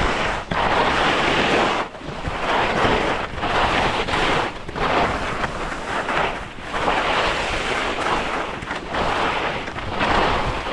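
Skis scraping and hissing over snow in a series of turns, the rush swelling and easing every second or two, with wind rushing over the microphone.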